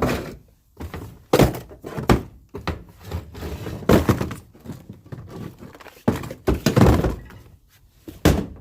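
Irregular hollow thunks and knocks, several in a row, of plastic tackle boxes being handled and set down in a fishing boat's storage compartment.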